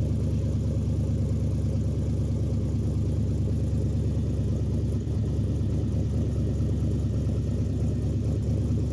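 Steady engine and road drone of a vehicle being driven, heard from inside the cab: a constant low rumble with no change in pitch.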